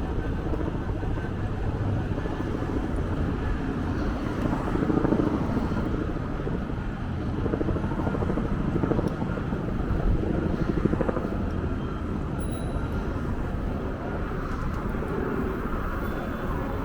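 Steady low rumble of a running vehicle, swelling and easing gently over several seconds.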